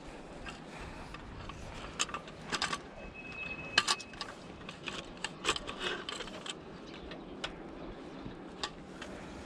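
Irregular light clicks and clinks of handled hard objects, with a short steady high tone a little after three seconds in.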